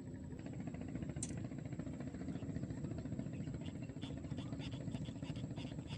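A small engine running steadily, with a faint higher hiss pulsing about twice a second from about halfway in.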